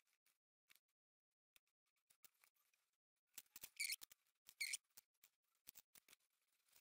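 Craft knife blade scraping leftover plasticine out of the pour and vent channels of a mould half: faint scattered ticks, with two short scrapes a little under a second apart near the middle.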